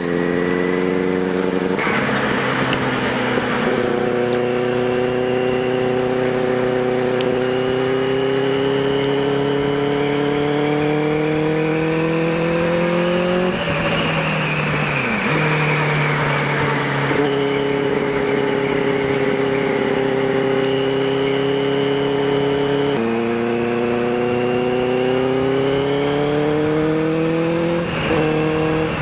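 Inline-four engine of a DSK Benelli TNT 600i, breathing through a twin IXIL aftermarket exhaust, heard on board while riding. Its note climbs slowly in each gear and drops abruptly at each gear change, five or so times, with one sharper dip and fall about halfway through.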